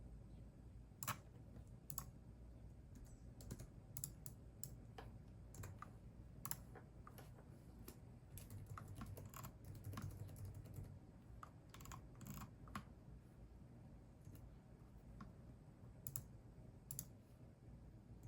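Faint computer keyboard typing: irregular keystrokes in loose runs with short pauses, a few keys struck more sharply than the rest.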